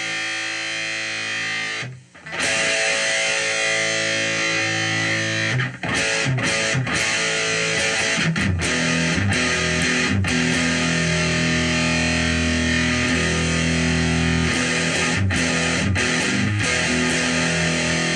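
Electric guitar played through a Movall Jumpspace overdrive pedal, with distorted chords ringing out. A brief break comes about two seconds in, then a run of freshly struck chords that sustain.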